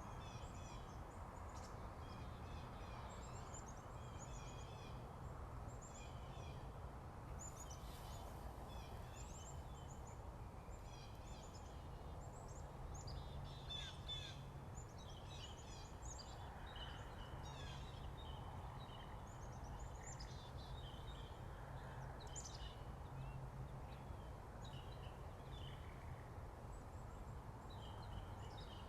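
Morning birdsong: several small birds singing and calling with quick, repeated chirps and trills, over a steady low background rumble.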